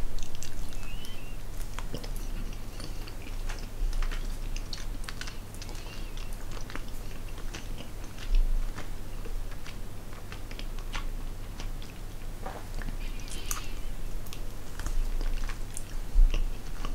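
A person chewing soft fruit gums with a liquid sour filling, close to the microphone: irregular wet mouth clicks and smacks.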